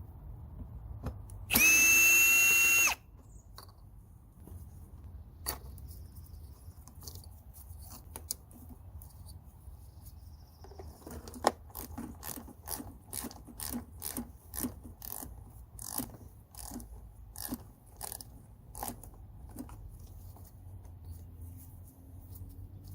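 A cordless power drill or driver runs briefly at one steady speed for just over a second near the start. Later comes a run of sharp metallic clicks, about two a second, from hand work on the car's parts.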